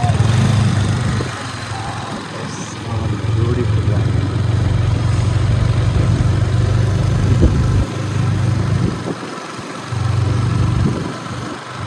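Motorcycle engine running with a steady low drone that drops away briefly twice in the second half.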